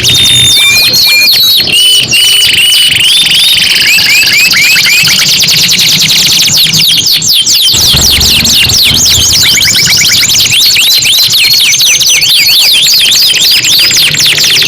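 Domestic canaries singing loudly and without a break: fast rolling trills and rapid repeated sweeping chirps and whistles, with several song lines overlapping.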